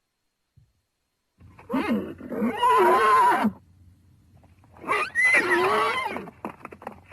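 Horse whinnying twice, starting about a second and a half in and again near five seconds in; each call is loud, about two seconds long, with a wavering, quavering pitch.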